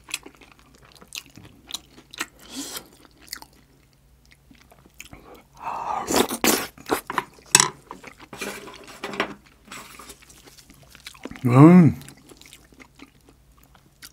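Close-miked chewing and crunching of a mouthful of curry rice, with wet mouth clicks and louder noisy bursts about six seconds in. Near the end comes one short hummed voice sound that rises and falls in pitch.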